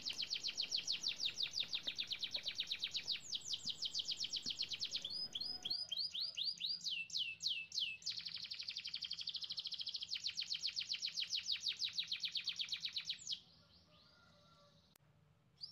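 A songbird singing fast trills of rapidly repeated high chirps, with a slower run of falling notes in the middle; the song cuts off suddenly near the end.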